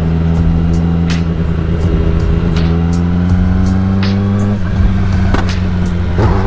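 Motorcycle engine running hard under the rider, its pitch climbing steadily as it accelerates, dropping briefly at a gear change about two-thirds of the way in and again near the end before climbing once more.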